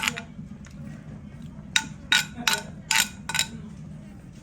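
Dishes and utensils clinking. There is one clink at the start, then about five sharp, quick clinks from near two seconds in, each with a short ring.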